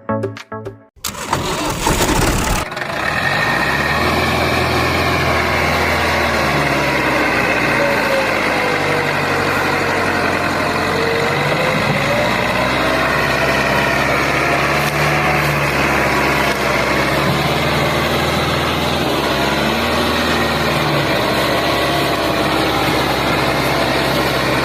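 An engine starts with a short burst of noise about a second in, then runs steadily, its pitch drifting slowly up and down.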